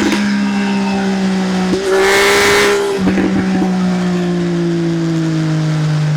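Triumph Speed Triple's three-cylinder engine running through an SC-Project aftermarket exhaust while riding. The revs hold steady, jump sharply higher with a louder rasp about two seconds in for about a second, then fall slowly.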